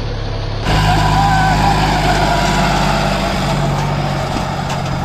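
John Deere 5104 tractor's diesel engine running steadily. It jumps louder suddenly under a second in, and its pitch drops slightly about three seconds in.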